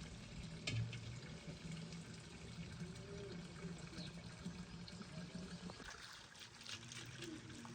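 Water pouring and trickling, with a few light clicks.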